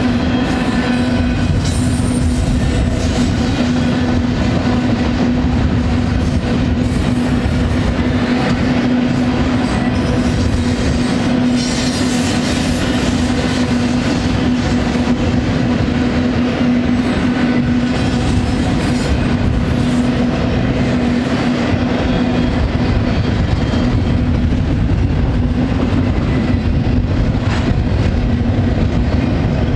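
Double-stack intermodal train's well cars rolling past: a continuous loud rumble and rattle of steel wheels on rail, with a steady low hum under it.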